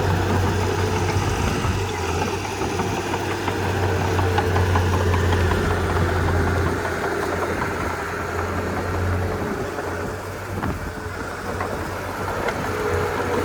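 Komatsu D31P bulldozer's diesel engine running with a steady low drone that eases off about ten seconds in and then picks up again.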